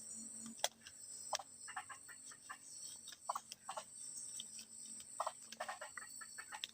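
Forest insects droning steadily at a high pitch, over irregular crackles and rustles of handling.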